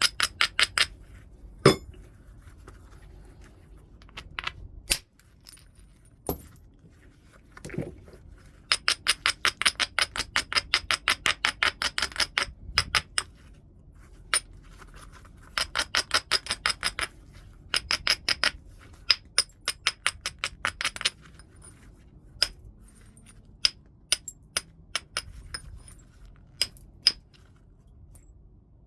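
Flintknapping on heat-treated Burlington chert: hard tools clicking against the stone in runs of quick light strokes, about seven a second, with single sharp clicks between the runs.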